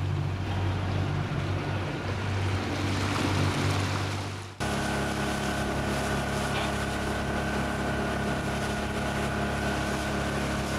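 Outboard motor of a MacGregor 26X power sailor running under way, over water and wind noise. About halfway through, the sound changes abruptly to a steadier engine hum.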